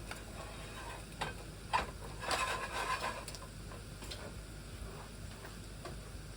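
Eggs sizzling quietly in a frying pan, with a couple of sharp clicks and a short scraping burst about two to three seconds in from a spatula working the pan.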